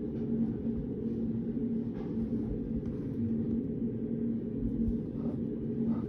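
Steady low rumbling hum of a study room's background noise, with a constant faint tone in it. A few faint soft ticks come through, one about two seconds in and a couple near the end.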